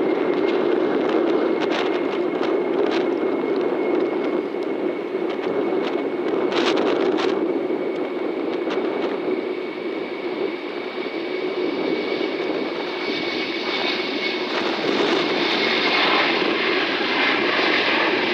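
Jet airliner engines running, with a thin steady high whine over a broad engine noise. A harsher hiss builds over the last few seconds. A few sharp knocks come about a third of the way in.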